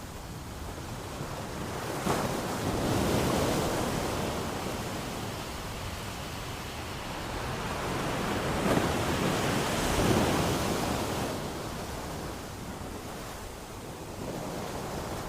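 Ocean waves breaking and washing up a beach, two swells of surf rising and falling, with some wind.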